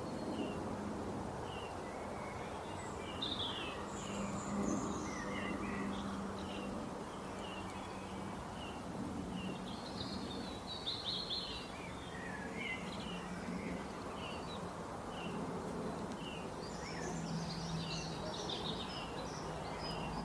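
Small birds chirping and twittering in short, scattered calls over a steady background noise.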